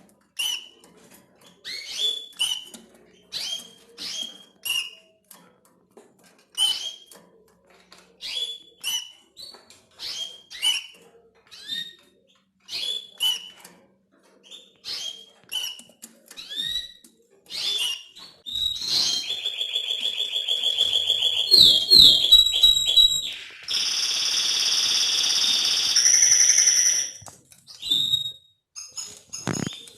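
Canary singing: a string of short, sharp chirps about once or twice a second, then, about 18 seconds in, a fast rolling trill followed by a louder buzzing roll, and single chirps again near the end.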